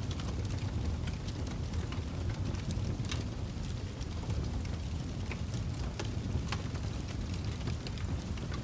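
Fire burning in a fireplace: a steady low rumble from the flames, with sharp crackles and pops at irregular moments.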